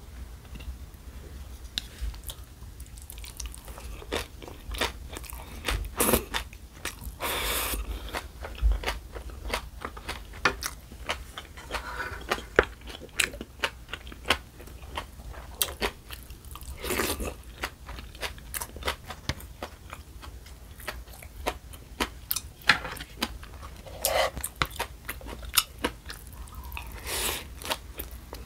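Close eating sounds: chewing and crunching mouthfuls of green onion kimchi and spicy tuna bibimbap, with many short wet clicks of the mouth and a few longer slurping smears.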